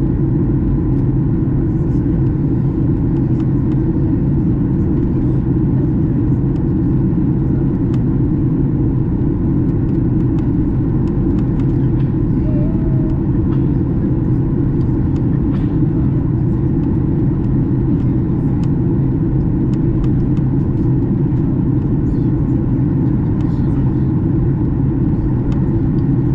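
Steady low rumble of engines and airflow inside the cabin of a Boeing 737 MAX 8 airliner descending toward landing.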